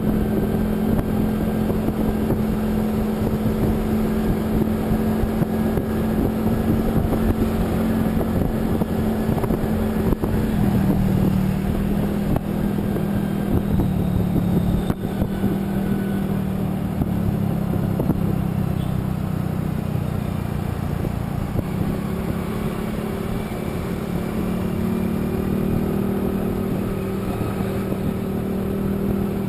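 Engine of a moving road vehicle running at steady cruise over continuous road and wind noise. The engine hum drops slightly in pitch about ten seconds in and climbs again near the end.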